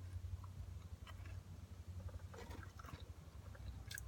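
A person chewing food close to the microphone: scattered soft mouth clicks and bites, a little louder about two and a half seconds in and near the end, over a steady low hum.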